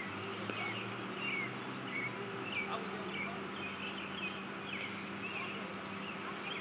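Small birds chirping in many short, quick notes, over a steady low hum and outdoor background noise.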